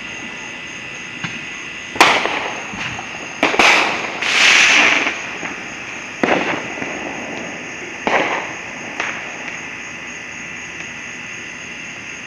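Fireworks going off: a string of sharp bangs about 2, 3.5, 6, 8 and 9 seconds in, with a louder rushing burst lasting about a second near the middle.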